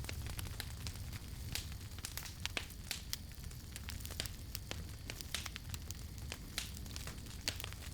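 Campfire burning with frequent irregular crackles and pops over a steady low rumble of the flames.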